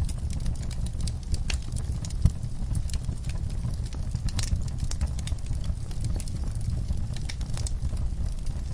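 Wood fire burning in a fireplace: irregular crackles and pops over a steady low rumble, with one sharper pop about two seconds in.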